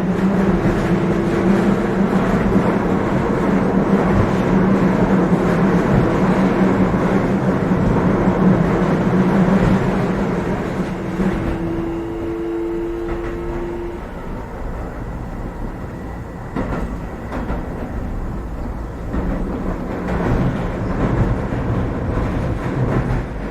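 Keio 7000 series electric commuter train running, heard from inside the car: a steady rumble with a hum from the traction equipment. About halfway through, two brief higher tones sound and the running noise drops as the train slows, with scattered knocks from the wheels and bogies.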